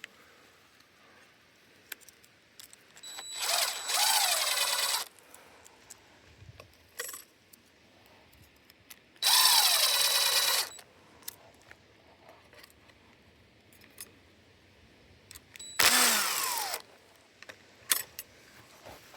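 A small power tool run in three short bursts, each a second or two long, its pitch falling at the end of each burst as it winds down.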